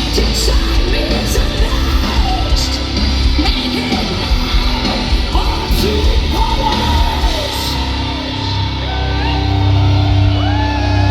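Heavy metal band playing live through a festival PA, with distorted guitars, pounding drums and yelled and sung vocals. About eight seconds in, the drum hits drop away and the band holds a low sustained chord under long held melodic lines.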